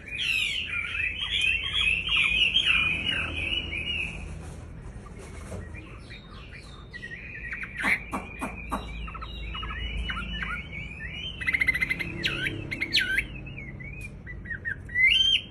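Wambi bird in breeding condition singing hard: fast, chattering, trilling song phrases that break off after about four seconds and resume, with a few sharp clicks about eight seconds in.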